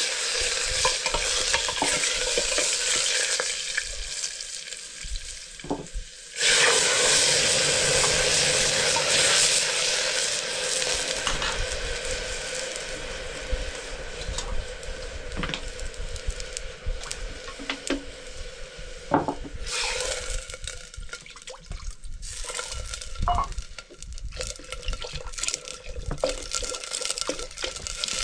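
Food frying in hot oil in a pan, sizzling steadily while it is stirred, with occasional clicks and scrapes of the spoon against the pan. The sizzle grows suddenly louder about six seconds in, then slowly dies down.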